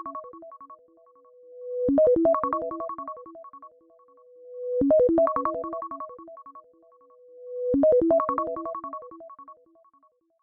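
An iPhone ringtone playing: a short phrase of quick, bright keyboard-like notes, repeated three times about three seconds apart, each phrase fading out before the next swells in.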